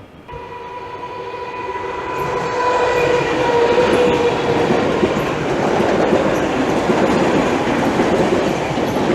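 Electric multiple-unit passenger train running into the station, its rumble and wheel clatter building steadily to loud. For the first few seconds a steady tone sounds over the noise.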